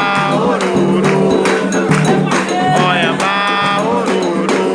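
Candomblé ritual song: voices singing a melodic line over driving hand-drum and percussion strokes.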